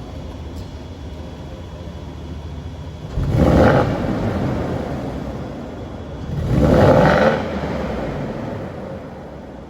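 Porsche Cayenne S 4.5-litre V8 with its muffler bypassed, idling and then revved twice about three seconds apart, each rev dropping back to idle. The exhaust echoes off the walls of a parking garage.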